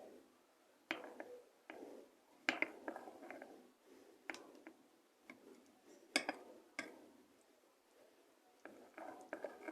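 A large spoon stirring a flour-and-water dough in a small bowl: faint, irregular clicks and taps of the spoon against the bowl, roughly one every second or so.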